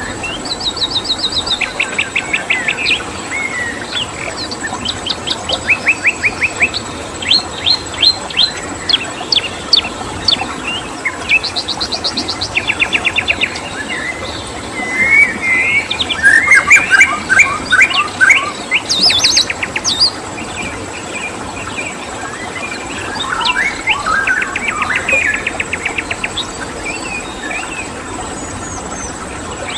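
Several birds singing and chirping in rapid trilled phrases, one after another and sometimes overlapping, over a steady hiss of running water and a constant high cricket tone.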